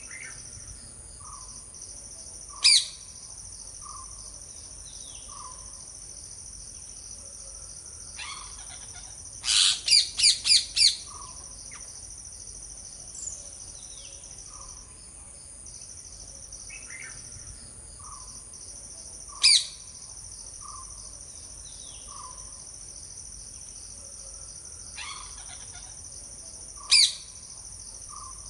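Parrots giving short, loud, sharp screeching calls: one about three seconds in, a quick run of five around ten seconds, and single calls near twenty and twenty-seven seconds. A steady high chirring of insects runs underneath, with softer repeated notes from other birds between the calls.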